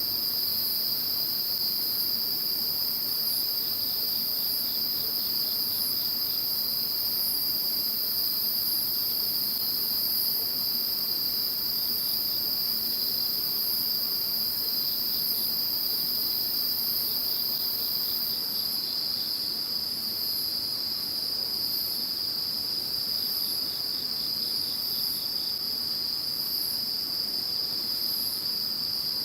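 Chorus of many insects calling together: one continuous high trill, an even higher layer of quickly repeated chirps, and short runs of rapid ticks every few seconds.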